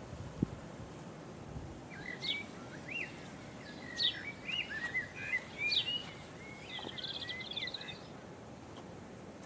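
A songbird singing a varied run of quick chirps and warbling notes for several seconds, ending in a fast trill, over a steady outdoor hiss.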